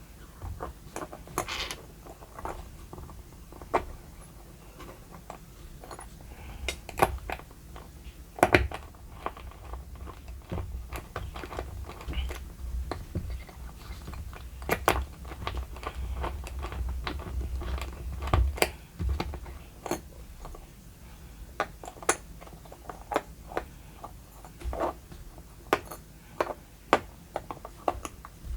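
Irregular small metal clicks and taps of a hair trimmer's blade, spring and fittings being handled and fitted together by hand. The clicks are scattered, with one sharper knock about eight seconds in and a low rumble of handling noise from about twelve to nineteen seconds in.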